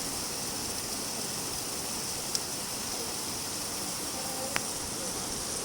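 Steady rain falling as an even hiss, with two single drops ticking close by, about two and a half seconds in and again near four and a half.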